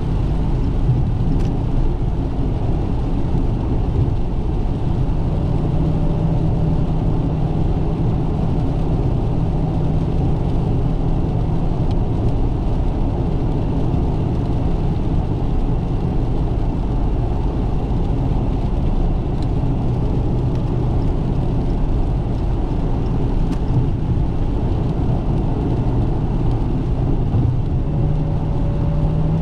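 Dodge Challenger Scat Pack's 6.4-litre 392 Hemi V8 running steadily at cruising speed under constant road and tyre noise. Near the end the engine note climbs slightly.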